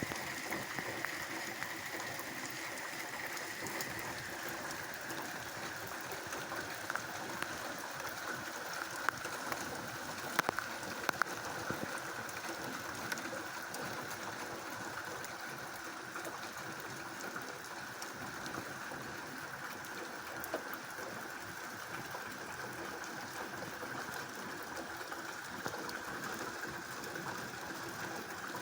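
Steady hiss of rain and running water, with scattered sharp taps of drops, a few of them clustered about ten seconds in.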